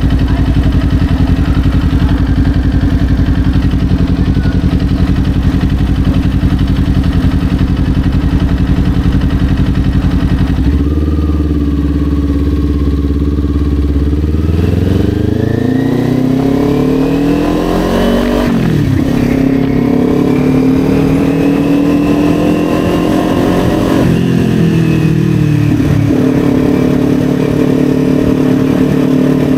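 Kawasaki Ninja 400's parallel-twin engine under way, holding a steady note for the first third. It then climbs in pitch as the bike accelerates, drops sharply at a gear change, climbs more slowly, drops again, and settles into a steady note near the end.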